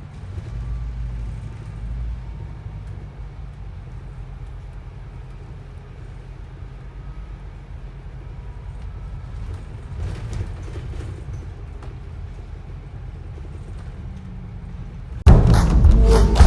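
Bus interior ride noise: a steady low engine and road rumble while moving, with some rises in level. Loud music comes in suddenly near the end.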